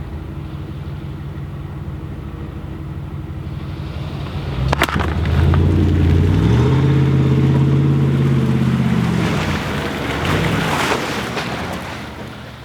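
Vehicle engine idling, then revving hard under load as a stuck pickup is worked out of deep mud: a sharp knock about five seconds in, the revs climb and hold high for a few seconds, then drop, with a hiss of spinning tyres and spraying mud near the end.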